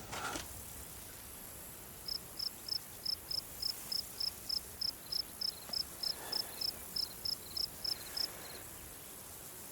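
A cricket chirping in a steady rhythm, about four short, high chirps a second, starting about two seconds in and stopping near the end, over a faint steady hiss.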